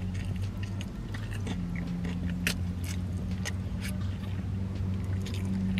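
Biting into and chewing a crispy fried chicken fillet topped with cheese and marinara, with scattered crunchy clicks from the breading. A steady low hum of the car's idling engine runs underneath.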